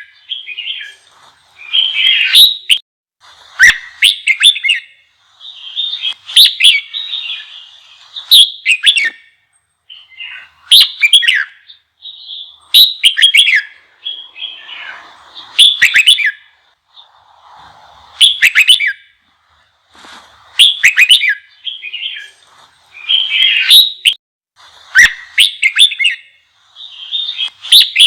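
Red-whiskered bulbul singing loudly in short, rapid, chattering phrases about every two seconds. It is a heated, fired-up song of the kind used to provoke other bulbuls into singing.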